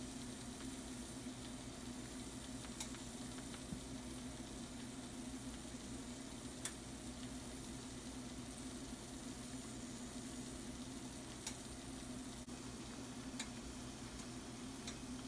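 Shrimp and mushrooms sizzling in a skillet, a steady hiss with a few sharp pops, over a low steady hum.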